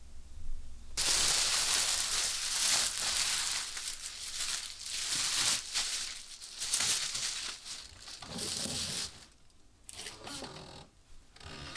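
Irregular crinkling, rustling noise that starts abruptly about a second in and dies away after about eight seconds.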